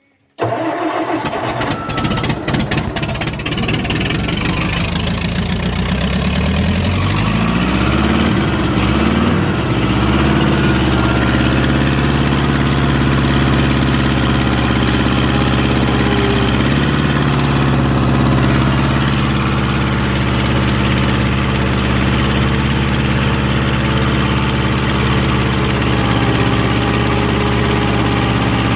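Old Wisconsin air-cooled gas engine in a small skid steer starting about half a second in, running roughly at first with close-spaced knocks, then revving up between about seven and ten seconds in and settling into steady running.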